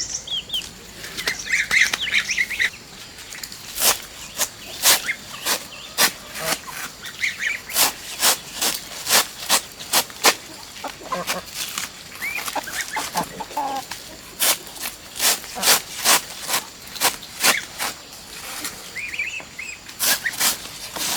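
Chickens clucking with short calls, over a series of sharp, irregular knocks, about one or two a second, which are the loudest sound.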